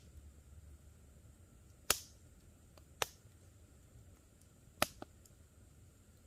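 Campfire wood crackling: a few sharp pops over a quiet background, the last two close together near the end.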